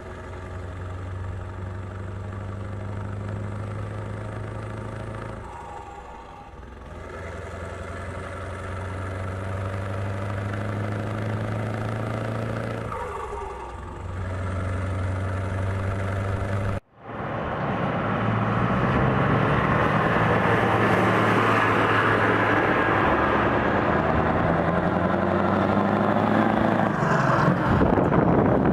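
Scania R500 V8 diesel truck engine running, its note dipping and recovering twice. After a sudden break about 17 seconds in, it returns louder with a slowly rising pitch, mixed with wind noise on the microphone.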